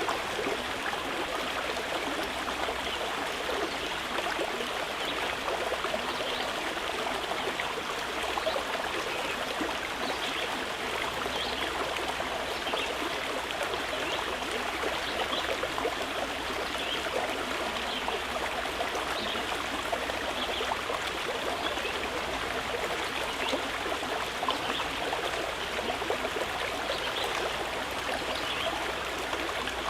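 A stream of water flowing steadily, an unbroken sound of running water with small splashes and trickles throughout.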